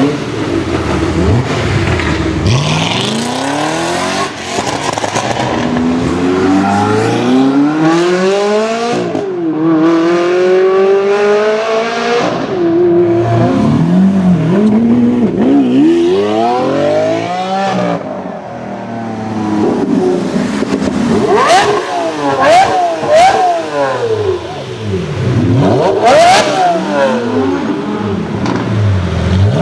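High-performance car engine revving and accelerating hard, its pitch climbing and dropping back again and again as it shifts gears. Later come several quick throttle blips with a few sharp cracks.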